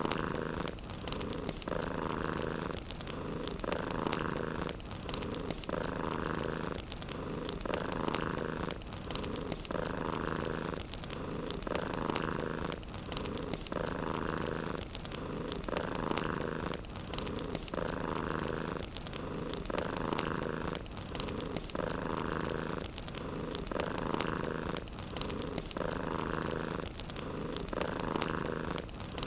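Domestic cat purring in an even cycle of about one breath every two seconds, with the crackle of a wood fire.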